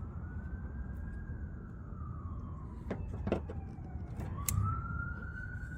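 Emergency-vehicle siren wailing, slowly rising and falling twice. A few sharp clicks and knocks sound over it about three and four and a half seconds in.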